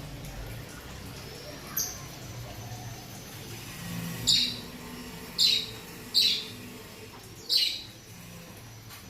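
Small pet parrots calling: a faint call about two seconds in, then four loud, short, falling shrieks about a second apart in the second half.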